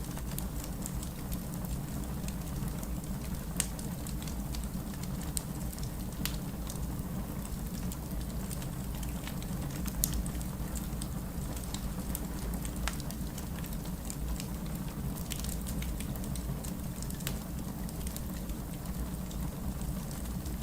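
Fireplace crackling over steady city rain: a continuous low rumble with scattered sharp pops, one louder about ten seconds in.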